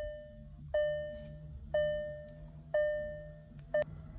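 2021 VW Atlas SEL dashboard warning chime sounding after the start button is pressed once to switch the ignition on. It chimes about once a second, each tone fading away, and the last one is cut short near the end.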